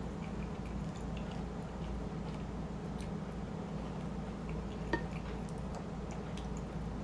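Close-miked eating of shrimp chili on rice: soft wet mouth and chewing noises and faint small clicks over a steady low hum, with one sharper click about five seconds in.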